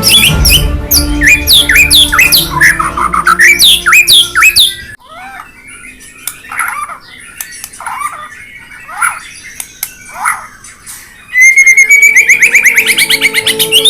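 A songbird calling over and over in quick, falling chirps, over background music. The music drops out about five seconds in, leaving only the bird, and comes back near the end as the bird breaks into a fast rising trill.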